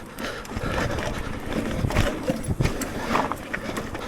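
Electric mountain bike riding over rough trail: a steady rush of tyre and wind noise broken by irregular knocks and rattles as the bike hits bumps.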